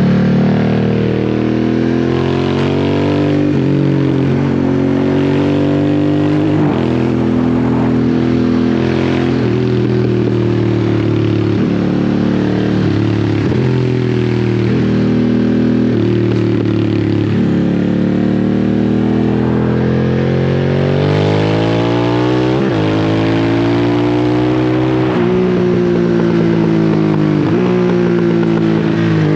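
Harley-Davidson Sportster S's 1250 cc V-twin through a slip-on exhaust, ridden at low revs. Its pitch drops and climbs again and again as the throttle is rolled on and off and gears change, with a longer climb near the end.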